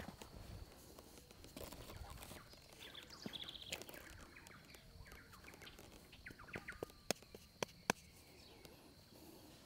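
Birds chirping faintly, with a thin steady high tone behind them. About three quarters of the way in come three sharp clicks, the loudest sounds.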